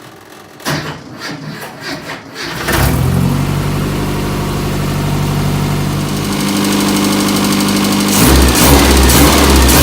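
Ministox racing Mini's engine on its first startup: cranked briefly, it catches about three seconds in and settles into steady running. It gets louder near the end as it is revved.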